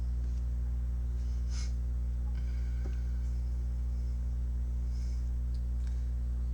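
Steady low electrical hum, with a few faint, brief rustles over it.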